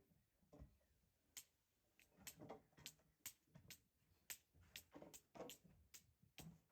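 Wood fire crackling: faint, irregular sharp pops and snaps, starting about a second and a half in.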